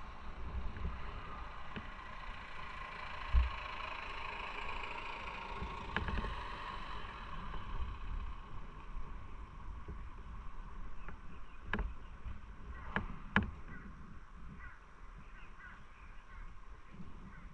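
Wind buffeting the microphone and road noise during a motorcycle ride, swelling in the first half and easing off later, with a few sharp clicks about 12 and 13 seconds in.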